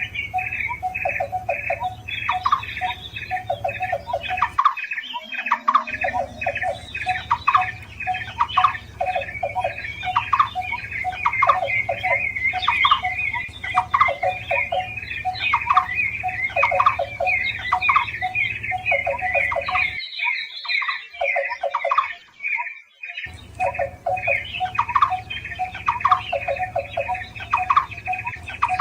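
Barbet calls from a bird-lure recording: rapidly repeated notes in a steady rhythm, a higher-pitched series layered over lower notes. There is a brief break about five seconds in and a longer one about twenty seconds in.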